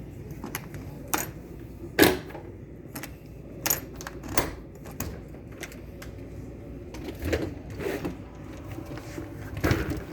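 A string of irregular sharp clicks and knocks over a low steady rumble, the loudest about two seconds in.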